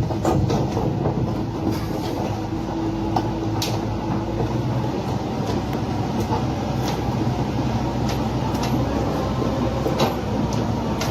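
Heavy machinery engine running steadily as a low rumble, with scattered sharp metallic clicks and knocks over it.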